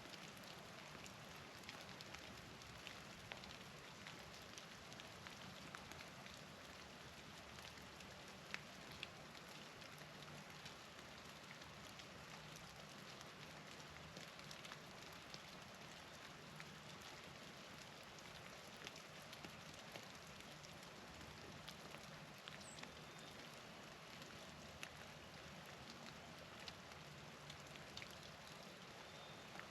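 Faint, steady patter of precipitation falling on surfaces outdoors, dotted with many small sharp ticks.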